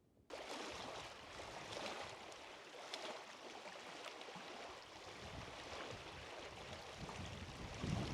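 Steady rushing outdoor noise of wind and water, starting abruptly a fraction of a second in, with a low gust of wind buffeting the microphone near the end.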